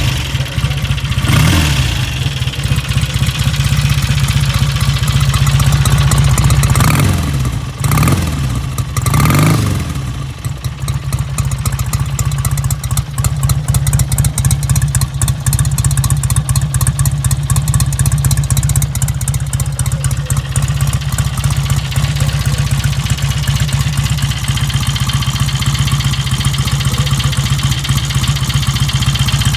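1953 Royal Enfield Meteor's 700cc parallel-twin engine running: blipped once, then three more times in quick succession, before settling into a steady idle.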